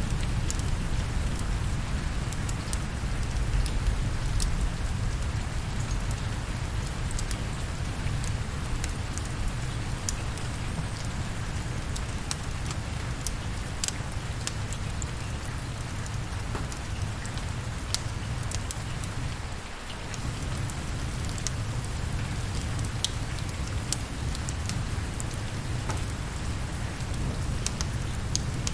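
Steady rain with a low rumble, scattered with sharp ticks, and a brief dip in level about two-thirds of the way through.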